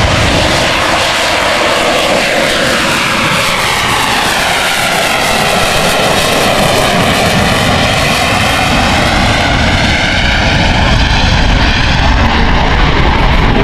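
AV-8B Harrier II's Pegasus turbofan jet engine running at takeoff power, a very loud, continuous jet roar. It takes on a sweeping, phasing sound that falls and rises again as the aircraft moves.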